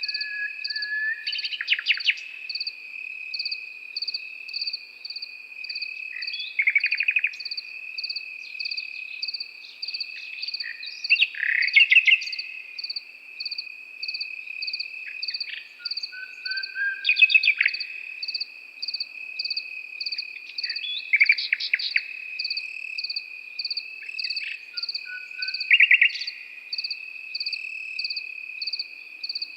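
Nightingale singing short, rapid trilled phrases with brief whistles, about every four to five seconds, over crickets: one holding a steady continuous trill and another chirping in a regular pulse about twice a second.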